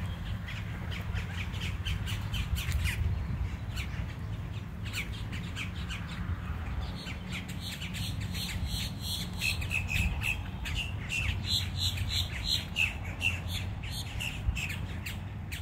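Birds calling in a park, with many short, repeated calls that come thicker and faster in the second half, over a steady low rumble.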